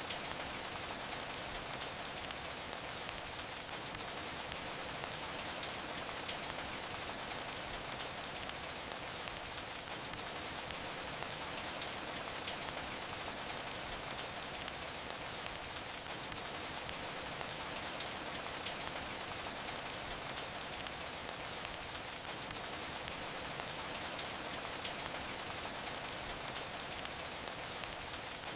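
Steady rain falling, with sharp, irregular crackles and pops from a wood fire over it; the loudest pops come about every six seconds.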